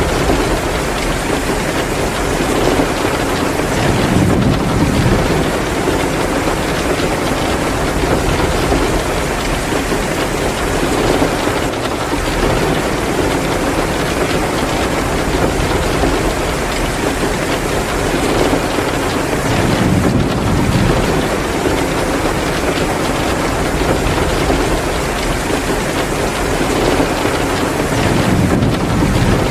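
Heavy downpour of rain, a dense, steady hiss, with a few low rumbling swells about 4, 20 and 28 seconds in.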